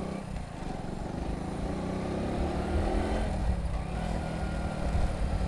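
Hero Passion Pro motorcycle's single-cylinder engine running steadily while riding, with a low wind rumble over the microphone.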